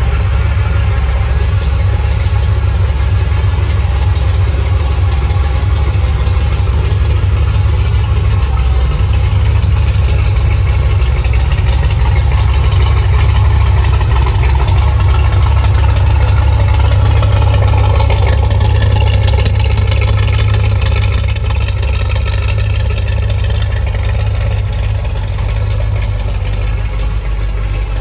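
1963 Chevrolet Corvette Sting Ray split-window coupe's 327 V8 idling steadily. It gets a little louder around the middle and eases slightly about three-quarters of the way through.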